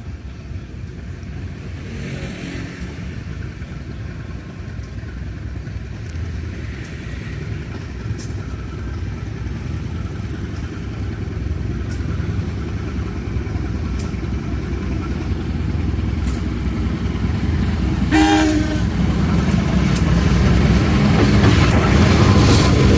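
A locomotive-hauled train approaching, its low rumble growing steadily louder. The locomotive's horn gives a short blast about eighteen seconds in.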